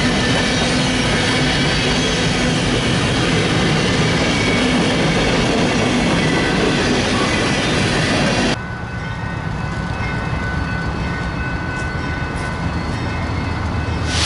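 Freight train rolling past close by, a loud steady clatter of cars and wheels with thin squealing tones. About eight and a half seconds in, it cuts off abruptly to a quieter, low rumble.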